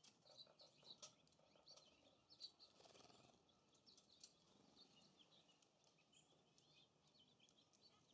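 Faint chirps and calls of small songbirds at a feeder, with scattered light ticks and taps. A brief rush of noise comes about three seconds in.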